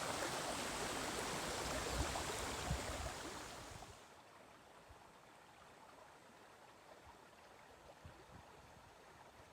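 Mountain stream rushing over the rocks of a riverbed, loud for the first three and a half seconds, then dropping away quickly to a faint steady rush for the rest.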